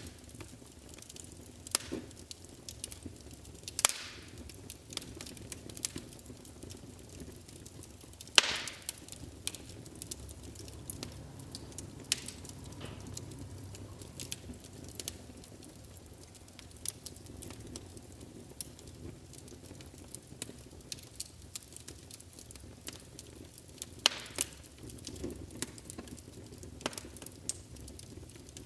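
Wood fire burning in a fireplace, crackling with scattered small clicks and a few louder pops, over a low steady rumble of the flames.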